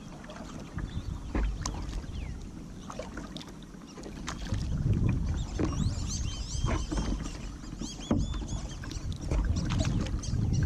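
Kayak paddling: paddle strokes splash and knock against the hull over a low rumble. From about six to eight and a half seconds in, a bird calls in a quick series of high chirps.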